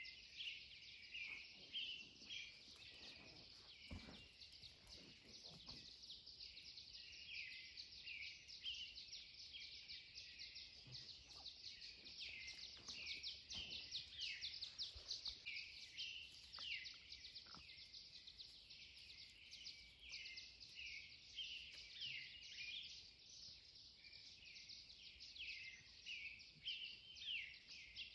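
Faint dawn chorus of many songbirds, overlapping short chirps and trills repeating without a break.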